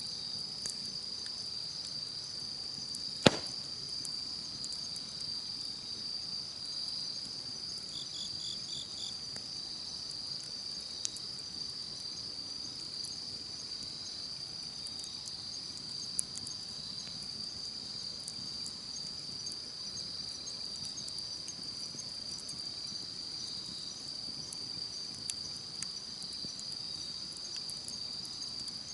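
A steady, high chorus of night insects, with sparse crackles from a wood campfire and one loud pop about three seconds in. About eight seconds in, a short run of four or five chirps from another insect.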